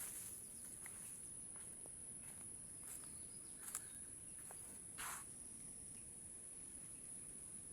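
Insects, crickets or similar, giving a steady high-pitched trill, with a few soft crackles and knocks, the clearest about four and five seconds in.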